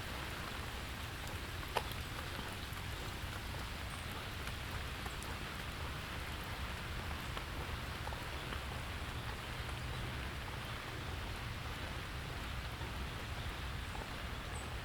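Steady rain falling, with scattered drops ticking on nearby surfaces and one sharper drip about two seconds in.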